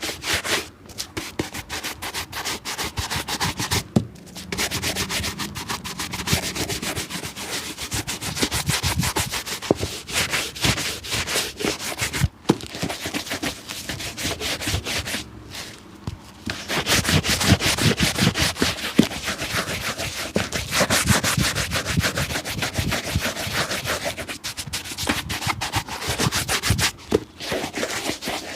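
Rapid back-and-forth rubbing and scrubbing strokes on a shoe during its restoration, in long runs broken by a few short pauses.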